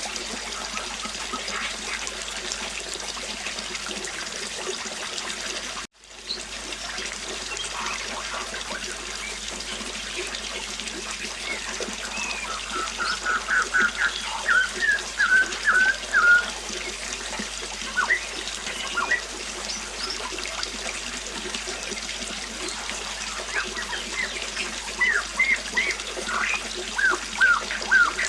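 River water flowing steadily, with birds chirping over it. A quick run of chirps comes about twelve seconds in and another cluster near the end. The water sound breaks off for an instant about six seconds in.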